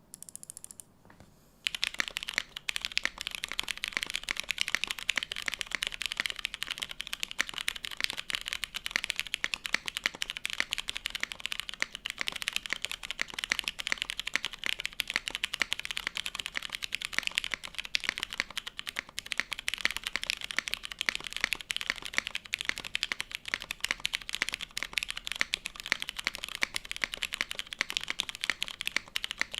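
Axiom TYP60SL 60% mechanical keyboard with an aluminium plate and lubed, spring-swapped, filmed Cherry MX Brown tactile switches being typed on fast and without pause. A dense run of keystroke clacks starts about a second and a half in.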